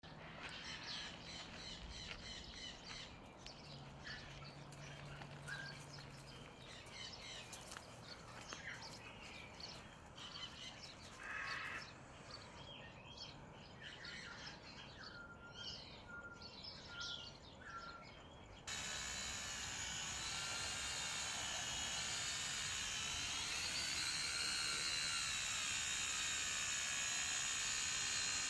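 Small birds chirping and calling, with a series of short, evenly pitched calls shortly before a sudden cut. About two-thirds of the way through, the sound switches abruptly to a multirotor drone's steady, loud propeller whine, its pitch wavering up and down.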